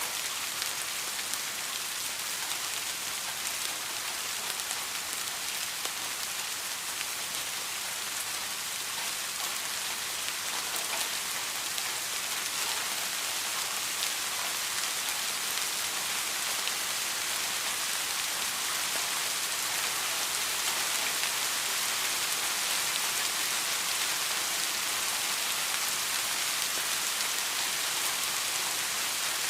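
Steady rain falling, a dense even hiss of many raindrops striking a surface, growing slightly louder partway through.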